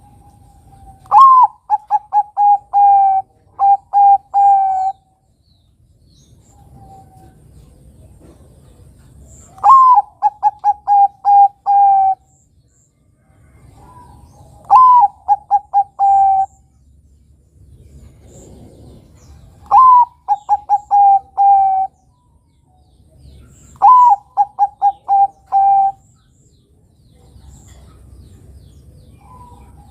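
Bangkok-type perkutut (zebra dove) cooing. It gives five phrases a few seconds apart, each a rising opening note followed by a quick run of short, clear coos.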